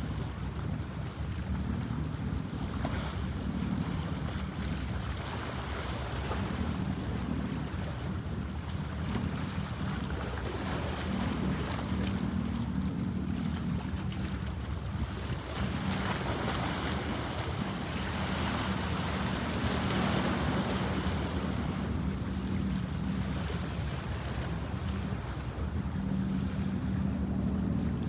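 A boat's engine drones steadily, mixed with the wash of water and wind noise on the microphone.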